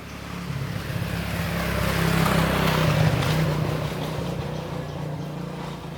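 A motor running with a steady low hum that swells toward the middle and then eases off.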